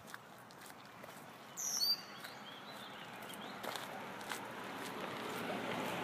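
A bird gives one short, high call about two seconds in. Under it runs an outdoor hiss that slowly grows louder, with scattered faint ticks.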